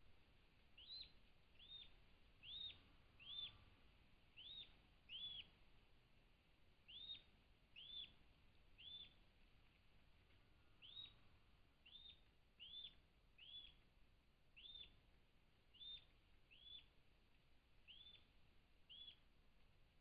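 A small bird calling with short, high chirps, roughly one a second, each note rising and then dropping in pitch. The chirps pause for about two seconds in the middle, over faint background hiss.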